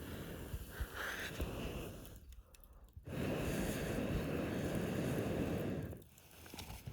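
Air blown in two long puffs onto a campfire, a weaker puff and then a louder, steady one about three seconds long, with a few faint crackles from the fire.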